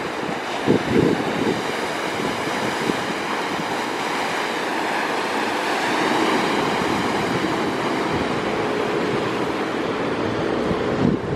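Wind buffeting the microphone over the steady rush of a rough sea, with heavier gusts about a second in and again near the end.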